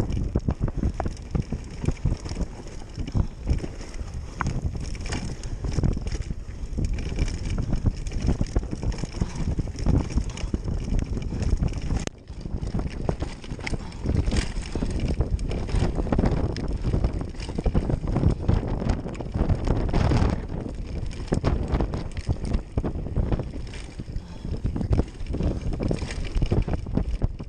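Wind buffeting the microphone over a dense rumble of knocks and rattles from a mountain bike riding over a rough dirt trail. The sound drops for a moment about twelve seconds in, then carries on the same.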